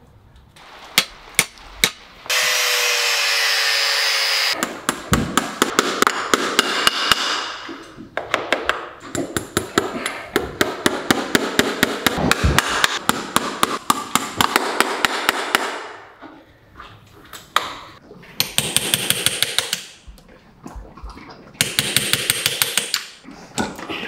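Farrier's hammer work on a horse's hoof: runs of rapid, sharp metal taps, in bursts separated by short pauses, with a steady hissing stretch about two seconds in.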